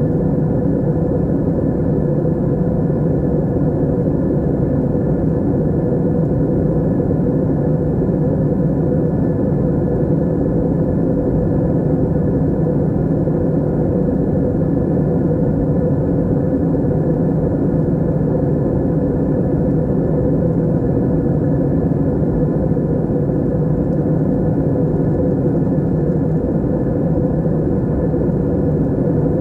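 Steady drone of an airliner in flight heard from inside the cabin: an even, unchanging rush of engine and airflow noise, low and full, with a faint steady hum running through it.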